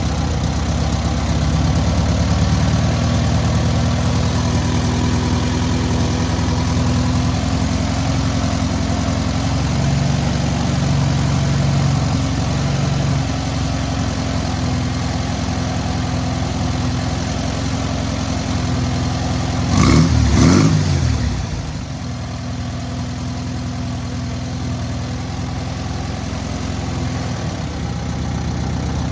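Freshly rebuilt air-cooled VW 1600cc flat-four engine running steadily during its break-in. About two-thirds of the way through it is briefly revved once and falls back, then runs on a little quieter.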